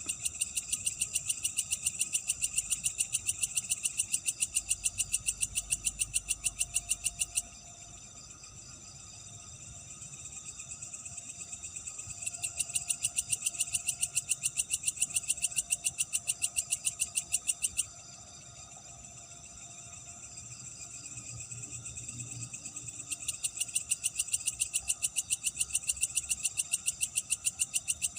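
Night animal chorus: a loud call of rapid, evenly spaced pulses, about four a second, comes in three bouts of five to seven seconds each, over a steady fainter background of insects and frogs.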